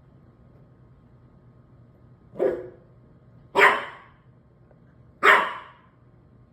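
Maltese puppy giving three short, high-pitched barks, the first one softer.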